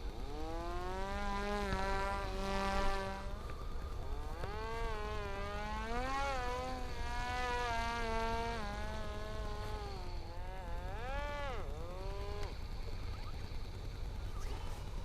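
Parrot Disco fixed-wing drone's electric motor and propeller whining in flight, its pitch wavering up and down with a sharp dip and rise near the end. The whine stops about twelve seconds in, as the Disco cuts its motor to glide in to land, over a low wind rumble.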